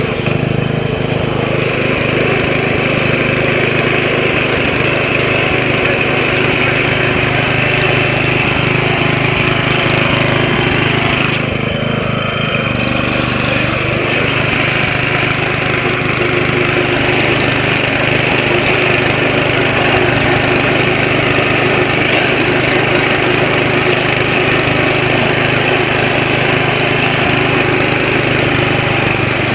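Riding lawn mower's engine running steadily while the mower is driven, with a brief dip in the sound about twelve seconds in.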